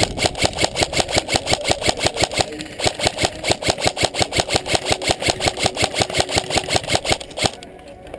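Airsoft gun firing on full auto, sustained fire of about nine shots a second with a short break partway through, stopping near the end.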